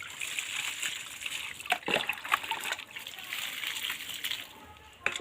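Water splashing and pouring, with a steady gush and irregular louder splashes about two seconds in, easing off near the end.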